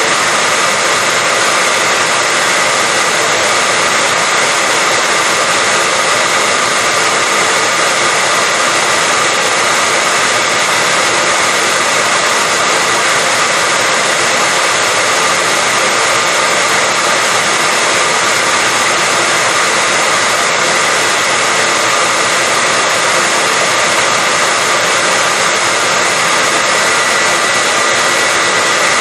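Hair dryer running steadily: a constant rushing of air with a thin, steady whine.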